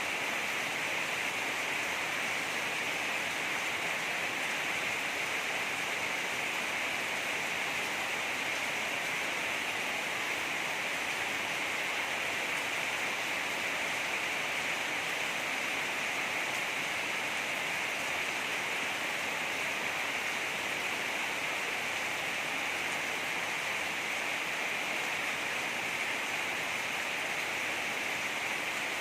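Heavy rain falling in a steady, unbroken hiss, brightest in the upper middle of the range.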